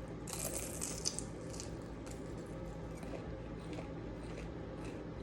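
Close-up eating sounds: a crisp, crunchy bite of fried food lasting about a second, starting just after the beginning, then soft chewing clicks, over a steady low hum.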